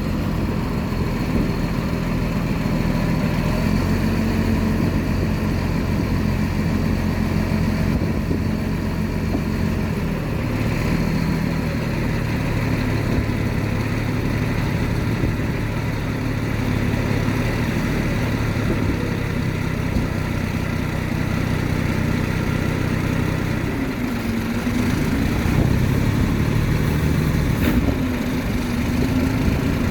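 Heavy diesel engine of earthmoving machinery running steadily. Its pitch shifts about a third of the way through, then dips and wavers with the load near the end.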